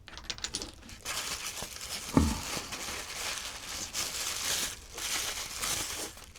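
Packing material crinkling and rustling as it is handled, with a dull thump about two seconds in.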